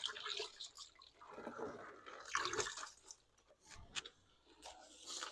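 Rice being rinsed in water: faint sloshing and dripping in uneven bursts, with a few light clicks.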